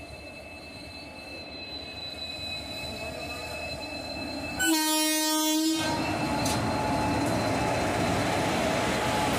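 A WAP-4 electric locomotive hauling passenger coaches approaching with a rising rumble, then sounding its horn once for about a second just before the halfway point. It then runs close past, its wheels and the coaches making a loud steady rumble.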